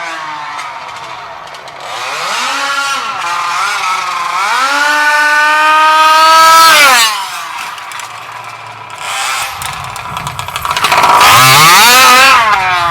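A Bartolone Racing BR40 big-bore two-stroke engine in a Losi 5ive-T 2.0 RC truck, revving through speed runs. Twice, about two seconds in and again near ten seconds, the pitch climbs, holds high and then drops away.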